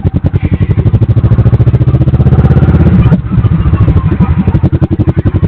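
Kawasaki Vulcan S parallel-twin motorcycle engine running with a fast, even pulsing beat that quickens over the first three seconds, dips briefly about three seconds in, then picks up again.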